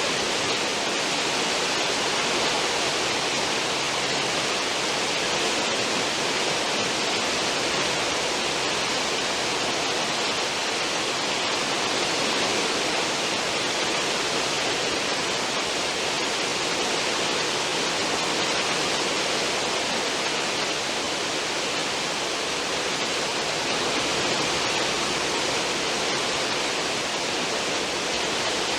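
Cruise ship's stern wake: a steady, unbroken rush of churning, foaming sea water behind the ship.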